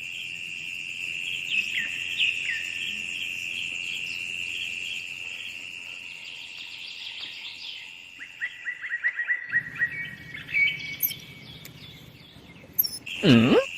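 Birds chirping over a steady high-pitched insect drone, with a quick run of short chirps partway through. Near the end there is a loud sweep that falls and then rises again.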